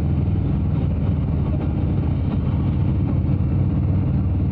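Harley-Davidson Road Glide's V-twin engine running steadily while riding on the road, a low engine note with some wind rush over it.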